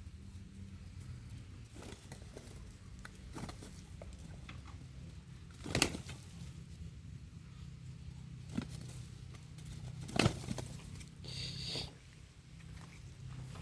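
Two roosters fighting: scattered sharp strikes and scuffles, the loudest about six and ten seconds in, and a short rustling burst near the end, over a steady low hum.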